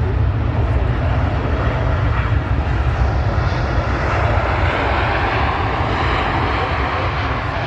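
Airliner's engines running loud and steady as it passes, with a deep rumble underneath and a rushing noise that grows stronger from about halfway through.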